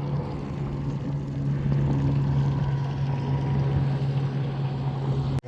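A boat engine runs at a steady, even drone. The sound cuts off abruptly near the end.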